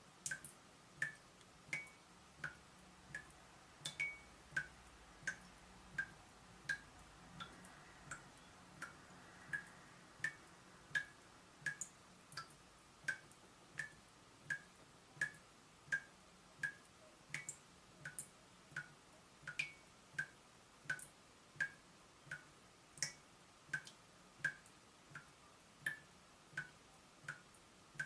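Water dripping from a leaking tap, about three drops every two seconds, each landing as a short, pitched plink.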